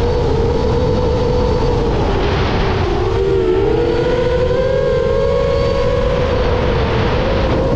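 Propellers and brushless motors of a 10-inch FPV quadcopter whining steadily in freestyle flight over a constant rush of air. About three seconds in the pitch drops and splits as the throttle comes off, then climbs back up.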